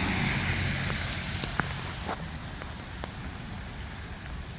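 Heavy rain falling, with a few individual drops striking the phone close to the microphone as sharp ticks. The rain eases off slightly over the few seconds.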